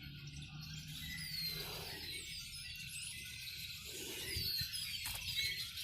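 A large flock of red-winged blackbirds calling all at once, many high, short chirps and calls overlapping into a loud chorus.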